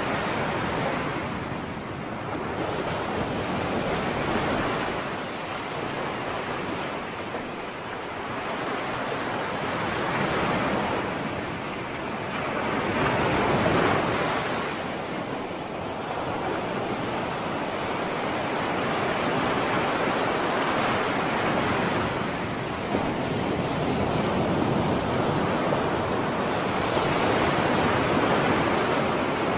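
Sea waves breaking and washing on a shore, a continuous surf noise that swells and eases every few seconds.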